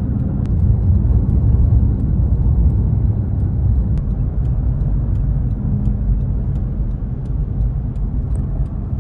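Steady low road rumble of a car driving at speed on the highway, heard from inside the cabin, with a few faint scattered ticks.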